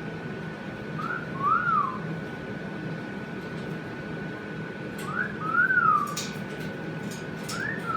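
A whistled two-note phrase, a short rising note followed by a longer note that rises and falls, given three times a few seconds apart.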